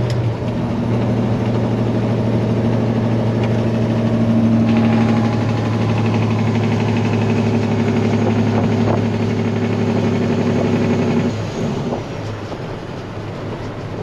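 Peterbilt 379 semi truck's diesel engine running steadily under way, pulling a loaded tanker; about eleven seconds in, the engine note drops and gets quieter.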